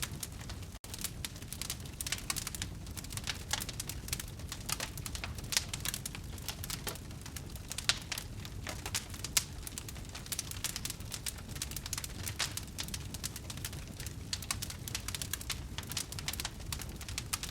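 Wood fire crackling: dense, irregular pops and snaps over a low, steady rumble, with a brief drop-out of sound just under a second in.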